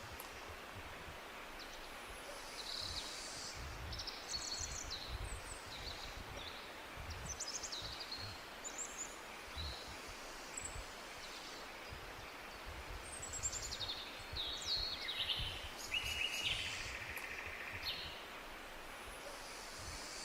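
Summer forest ambience: several birds calling and chirping in short, high phrases scattered throughout, over a steady hiss and an uneven low rumble.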